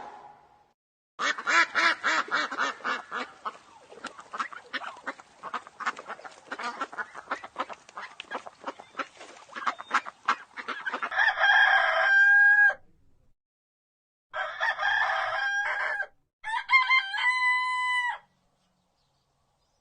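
Chickens clucking in a rapid, busy chatter for about ten seconds, then a rooster crowing three times, each crow a held call that drops at the end.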